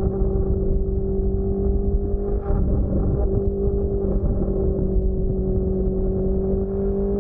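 Motorcycle engine running at steady revs, heard from a camera mounted at the rear of the bike, with a low rumble underneath and a slight rise in pitch near the end.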